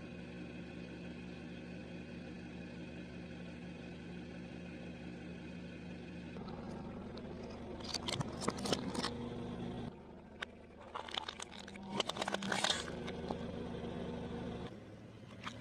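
Crunchy bites of fried food in clusters of sharp crackles from about eight seconds in, over a steady low hum like a car's cabin.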